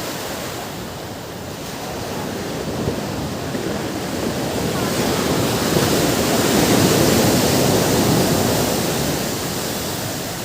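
Ocean surf: a wave's rush building to a peak about halfway through, then easing off toward the end.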